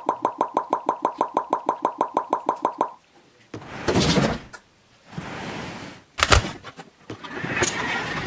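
A rapid run of short electronic beeps, about eight a second, stops after about three seconds. It is followed by two whooshing swells of noise, a sharp thump a little past six seconds, and a vehicle sound building up near the end.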